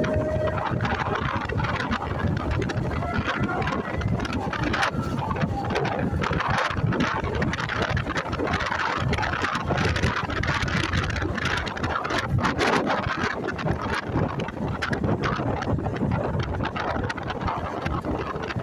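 Motorcycle riding noise: wind buffeting the microphone over engine and road noise, steady throughout.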